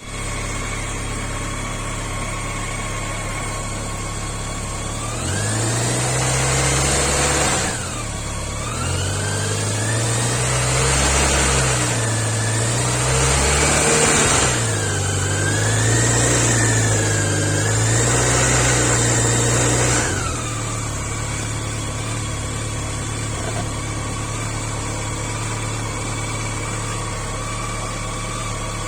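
BMW K1100's liquid-cooled inline four-cylinder engine idling, then revved several times, its pitch rising and falling repeatedly from about five seconds in. After about twenty seconds it drops back to a steady idle.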